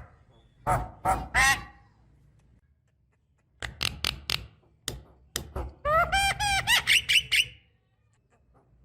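Javan myna (jalak kebo) singing: a few harsh, rasping calls, a short pause, then a string of sharp clicks and squawks leading into a quick run of clear, ringing whistled notes.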